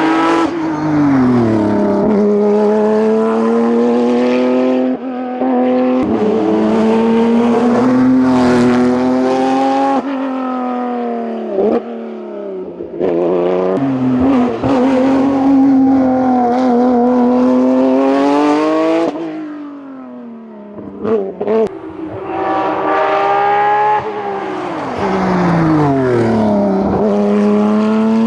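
Hillclimb competition car's engine run hard at high revs, the pitch dropping sharply at each of several gear changes. It eases off for a moment about three quarters of the way through, with a few short sharp cracks, before coming back on full throttle.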